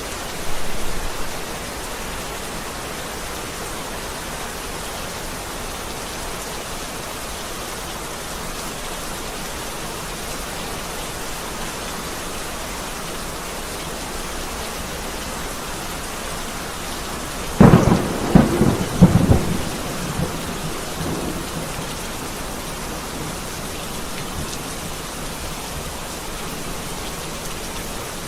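Heavy rain falling steadily in a thunderstorm. About two-thirds of the way through, a sudden loud thunderclap cracks and rumbles for a couple of seconds.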